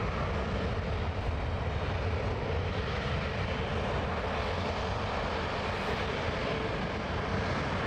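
Jet airliner's engines heard at an airport: a steady rush of noise over a low rumble, holding level throughout.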